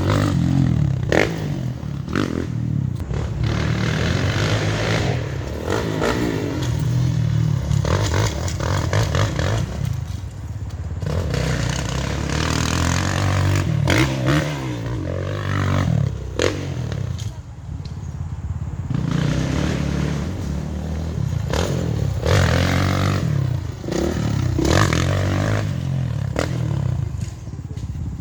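Dirt bike engine revving up and easing off again and again as it is ridden round a track, with frequent knocks and rattles.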